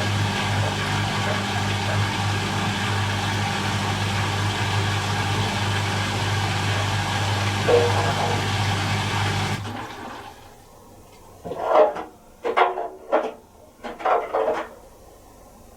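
Miele Little Giant PWM507 commercial washing machine in its 500 rpm intermediate spin, running with a steady hum, then cutting off suddenly about ten seconds in. Four short sounds follow as the drum comes to rest.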